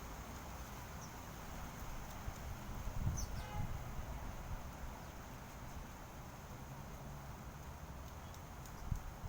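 A few faint bird chirps over a steady low rumble; about three seconds in, one chirp slides down in pitch, and a soft thump comes near the end.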